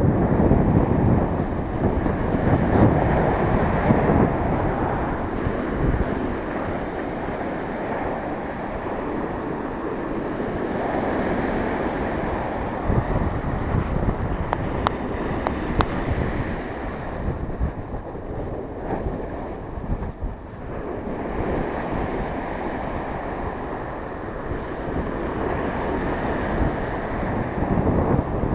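Rough sea surf breaking and washing on the shore, with wind buffeting the microphone in uneven gusts.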